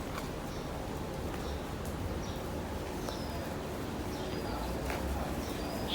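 Outdoor background noise, a steady low rumble, with a few faint, short, high bird chirps scattered through it.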